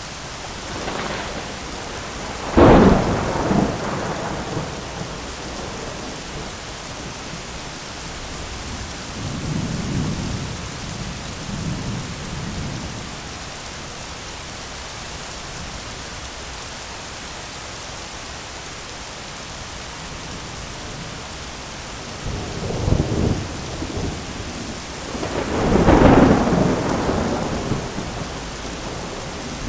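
Thunderstorm: steady rain under several peals of thunder, a sharp clap about three seconds in, a softer low rumble around ten seconds, then another crack and a long, loud rumble near the end.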